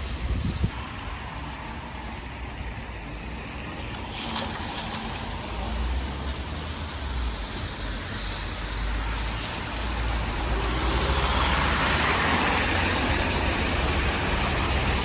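Road traffic on a town street: a motor vehicle's engine rumble and tyre noise, growing louder in the second half as it comes close.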